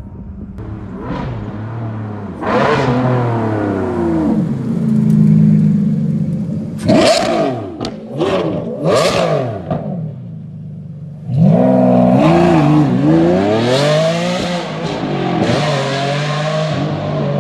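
Ferrari Enzo's V12 through a loud aftermarket exhaust, revving up and down. Three sharp blips come in quick succession in the middle, then a longer, loud run that rises and falls near the end.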